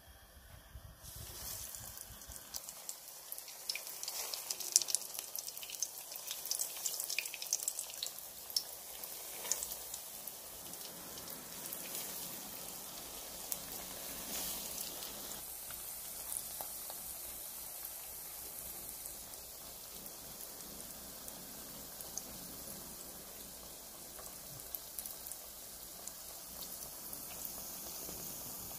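Potato patties frying in hot oil in a non-stick pan. The sizzle starts about a second in and crackles sharply over the first half while the patties are laid into the oil one by one. It then settles into a steady sizzle.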